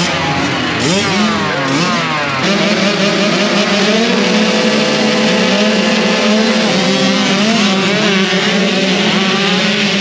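A pack of 65cc two-stroke motocross bikes revving, several engines rising and falling in pitch together, then from about two and a half seconds in running at a steady high pitch under power.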